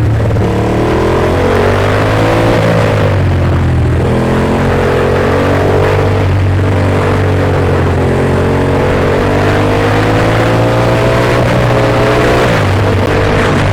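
Ducati Monster S2R motorcycle's L-twin engine running, its pitch rising and falling slowly over a steady low hum.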